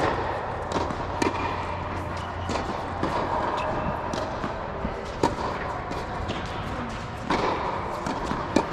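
Tennis balls being struck by rackets and bouncing on the court during a drill: sharp, irregular pops at uneven spacing over a steady background din.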